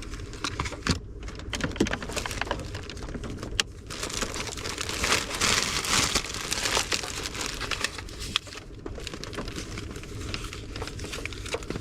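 A small rubbish bag crinkling and rustling as rubbish is pushed into it, with many small clicks and crackles; the rustling gets busier about four seconds in.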